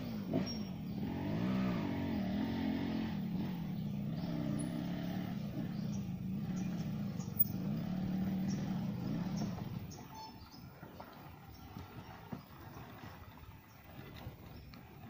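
Motorcycle engine of a grandong log-hauling bike loaded with teak logs, running under load with its pitch rising and falling as the throttle works. About ten seconds in it drops to a much quieter level.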